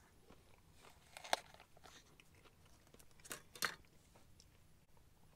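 Faint chewing of a crumbed cheesy chicken nugget, with three short sharp clicks, one about a second in and two close together about three and a half seconds in, as a small plastic gravy pot is picked up and its lid taken off.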